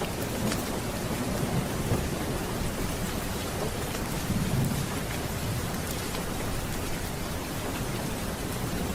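Steady heavy rain with low thunder rumbling underneath, the rumble swelling about halfway through.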